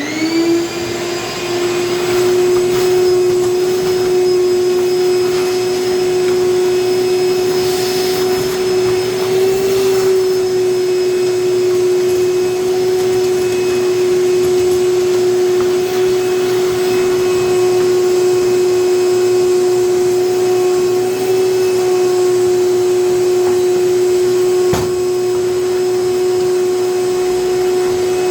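A high-speed electric motor and fan, run for cleanup, spin up within half a second and then run steadily with a loud high hum.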